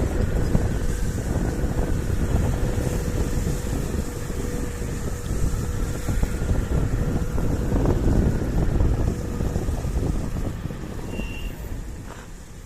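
Wind buffeting the microphone over road rumble while riding a KuKirin G2 electric scooter, with a steady whine from the scooter underneath for most of the time. The noise eases off in the last couple of seconds, and a short high tone sounds near the end.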